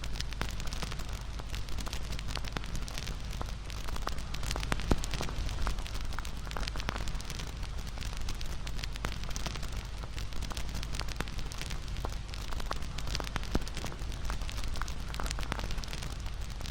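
Wood fire burning with a steady low rush and frequent crackles and pops, a couple of louder snaps standing out about five seconds in and near thirteen seconds in.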